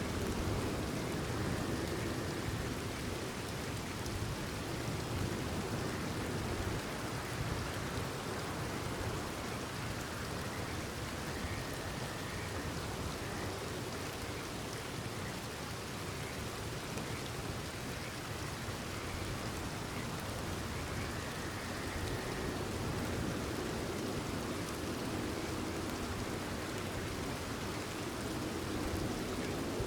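Steady rain falling, with a faint short frog call about every ten seconds.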